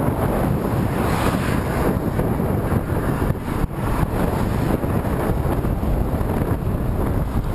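Strong headwind buffeting the camera microphone: a steady, heavy rumble that rises and falls slightly in level.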